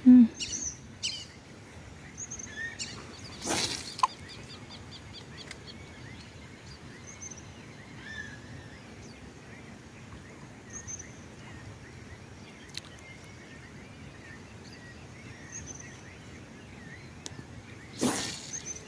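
Several wild birds chirping and calling on and off over a steady outdoor hiss. A brief loud whoosh comes about three and a half seconds in and another near the end.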